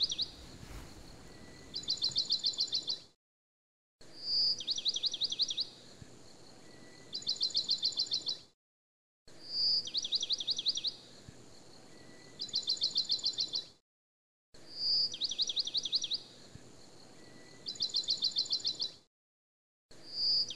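Songbird singing: a clear high whistle and a fast trill, then a longer fast trill. The identical phrase repeats about every five seconds with brief dead-silent gaps between repeats, as from a looped recording.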